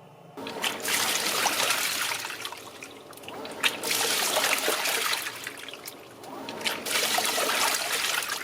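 Water splashing and trickling in the tub of a Hitachi BeatWash BW-V80F top-loading washing machine as it washes a cotton blanket, coming in three surges with short lulls between them.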